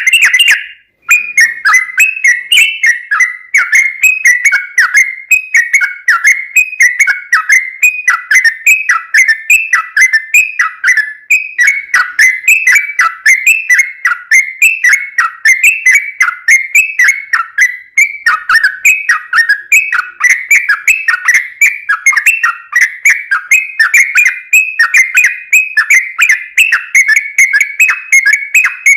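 Yellow-vented bulbul singing continuously: a loud, unbroken stream of quick, bubbling whistled notes, many of them dipping in pitch, repeated over and over without pause.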